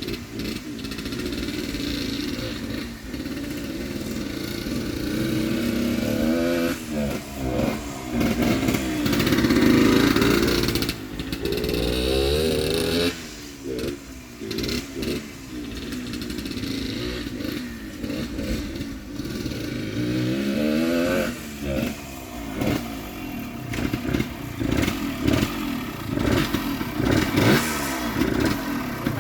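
Yamaha DT100's small two-stroke single-cylinder engine being ridden, revving up and falling back again and again, loudest about ten seconds in, with quick throttle blips later on. It is kept revved high because the engine, not yet warm, tends to stall at idle.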